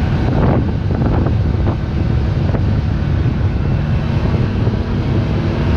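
Side-by-side UTV engine running steadily while driving, heard on board with wind buffeting the microphone.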